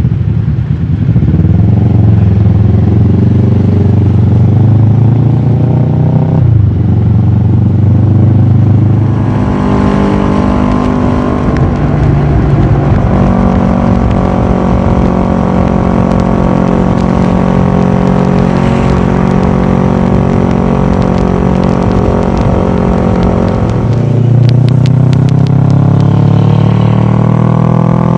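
Kawasaki ER-6f's 649 cc parallel-twin engine running through a full Akrapovic exhaust, heard from a camera mounted on the bike while riding. The engine revs up, drops in pitch briefly at a gear change about six seconds in, and climbs again. It then holds a steady pitch for a long stretch and rises once more near the end.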